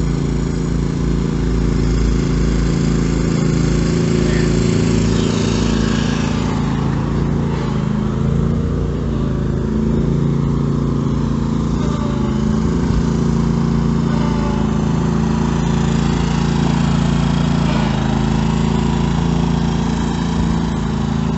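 Small tractor engine running steadily, its pitch shifting slightly now and then.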